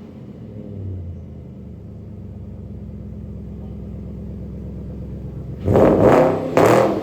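BMW 645Ci's 4.4-litre V8 with its rear silencers (backboxes) deleted, running steadily at idle, then revved sharply a few times in quick succession near the end.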